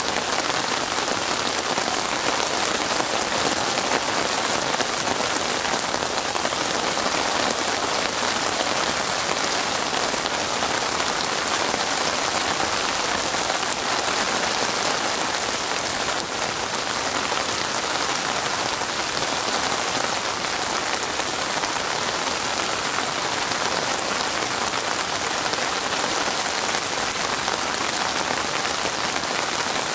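Steady rain falling on open water, an even hiss of many drops.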